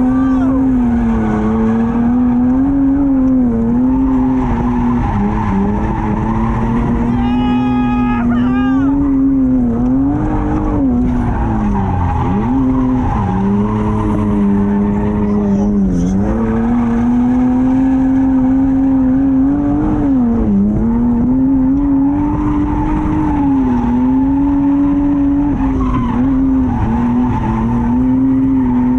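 Drift car engine held at high revs through a drifting run, its pitch dipping briefly and recovering several times as the throttle is worked. Tyres squeal, with a sharp squeal a third of the way in.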